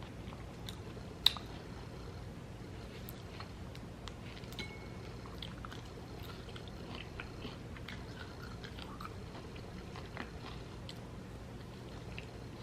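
A person chewing and biting bacon-wrapped, cream-cheese-filled jalapeno poppers up close: scattered small mouth clicks over a steady low hum, with one sharp click about a second in.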